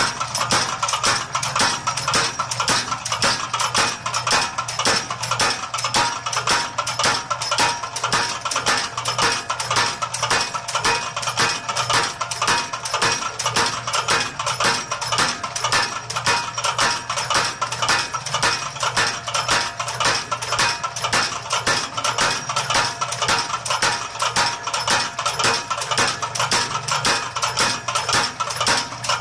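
Motor-driven mechanical power hammer striking hot steel in a fast, even rhythm of blows, drawing out a forge-welded bar, over a steady hum from the machine.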